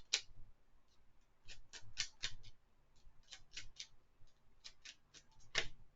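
Oracle cards being shuffled by hand: clusters of crisp, quick card snaps and clicks, the loudest one near the end.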